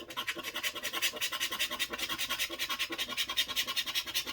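Scratch-off lottery ticket being scratched: rapid, even scraping strokes, about eight a second, rubbing off the latex coating.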